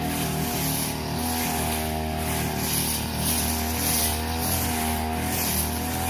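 Brush cutter engine running steadily at working speed, its pitch wavering slightly, with a high hiss that swells about once a second.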